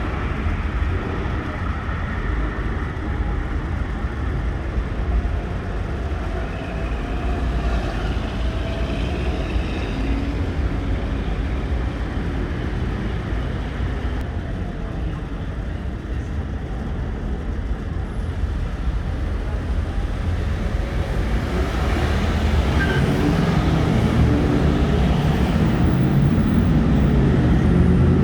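Road traffic noise: a steady low rumble of passing vehicles that grows louder over the last several seconds.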